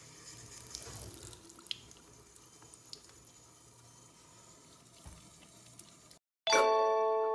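Running water hissing steadily, as from a tap into a sink, with a few faint ticks. It stops about six seconds in, and loud bell-like chime notes begin near the end.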